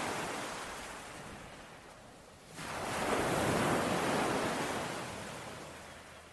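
Ocean surf: the wash of waves starts suddenly. About two and a half seconds in, a wave surges in, louder, then slowly dies away as it washes back.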